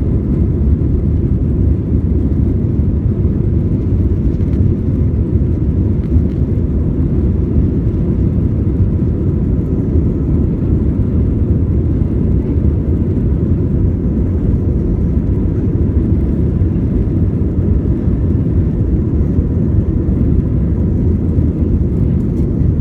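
Steady low rumble of an Airbus A320's engines and airflow heard inside the cabin, with a faint steady whine over it.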